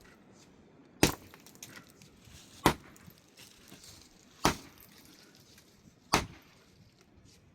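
Four heavy, sharp blows at an even pace, one about every one and a half to two seconds, each dying away quickly.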